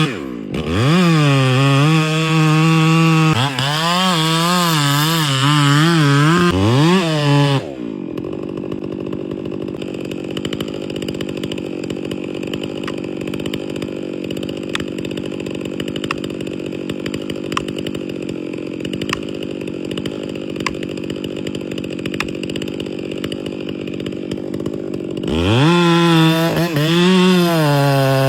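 Chainsaw engine revving hard, its pitch rising and falling again and again, then settling into a lower, steadier run for most of the stretch before revving up and down again near the end.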